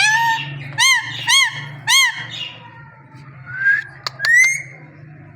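A parrot calling: one call at the start, then three short calls about half a second apart, each rising and falling in pitch. About three and a half seconds in come a few rising whistles and sharp clicks.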